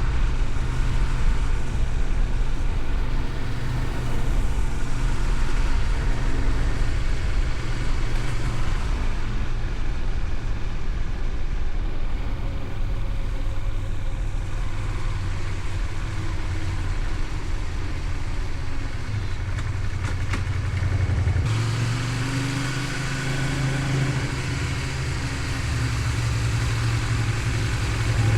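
Honda VTR250's 90-degree V-twin engine running steadily while riding, with wind and road noise. About two-thirds of the way through the sound changes abruptly, with more hiss and a different low engine note.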